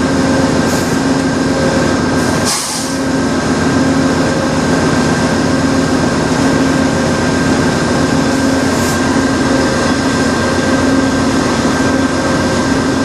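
Freight train of autorack cars rolling past with a steady clatter of wheels on rail, over the steady running of a stopped VIA Rail diesel locomotive alongside. A short burst of air hiss about two and a half seconds in.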